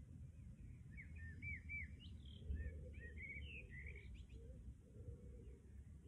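Faint birdsong: a songbird gives a quick run of short, arched chirping notes from about a second in until just past four seconds, over a low, steady background noise.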